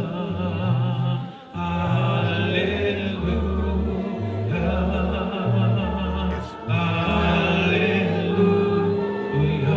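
Congregation singing a slow hymn, with held chords that change every second or so and two short breaks between phrases.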